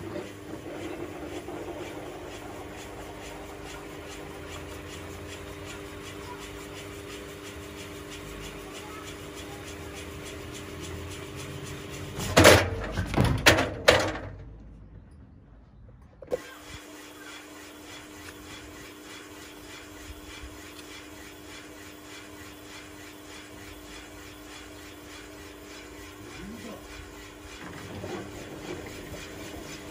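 Washing machine running with a steady motor whine, unbalanced by a 6-litre water bottle in the drum. About twelve seconds in, a burst of loud bangs from the drum, then the sound cuts out for about two seconds before the steady whine resumes.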